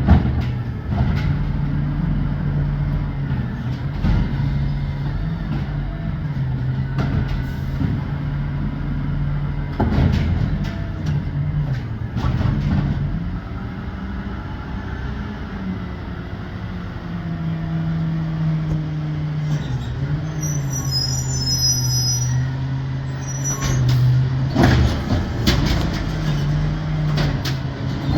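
Amrep garbage truck's engine running, its hum stepping up and down in pitch. Sharp knocks and bangs come every several seconds, loudest near the start and about 25 seconds in.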